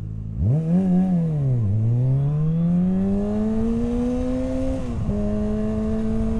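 Suzuki SV650's V-twin engine accelerating through the gears: it revs up about half a second in, drops in pitch at a shift, climbs steadily for about three seconds, drops again at a second upshift about five seconds in, then runs steady.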